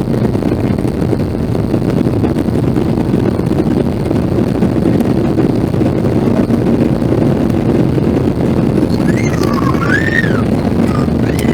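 Steady cabin noise inside a Boeing 737-800: a loud, even rumble of its CFM56 jet engines and airflow. Near the end a few brief, higher-pitched sliding sounds come in over it.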